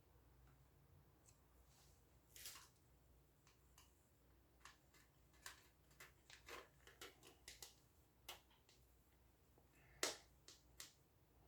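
Scattered light clicks and a brief rustle of fan parts being handled and fitted together, with the loudest click about ten seconds in.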